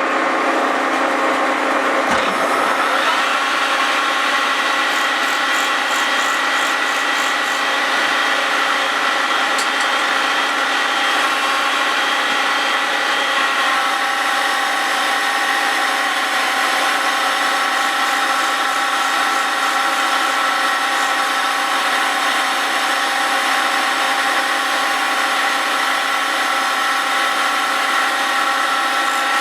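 Grinding wheel on a Cincinnati milling machine resurfacing the face of a Willys Jeep flywheel as it turns on a rotary table: a steady whine over a hissing grind. It starts abruptly, and its tone shifts slightly about halfway through.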